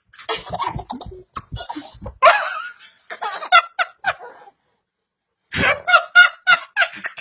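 A child laughing hard in rapid, rhythmic bursts. There are two fits of laughter, the second starting after a short pause.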